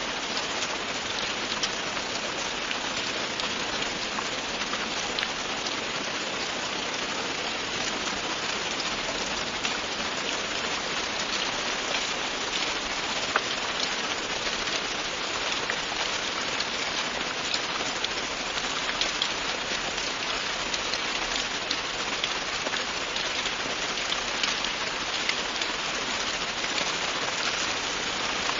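Steady, continuous rainfall: a dense, even hiss of rain falling on a surface, full of small sharp drop ticks.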